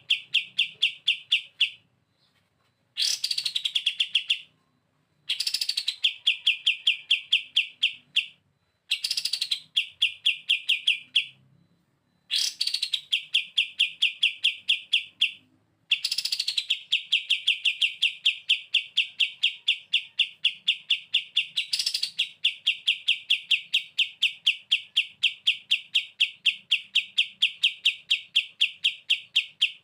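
Kapas tembak songbird singing its fast rattling "bren" trill: quick evenly pulsed notes, about five a second, in about seven bursts. Each burst opens with a sharp high note, and short pauses fall between them. The last trill runs unbroken for most of the final eight seconds.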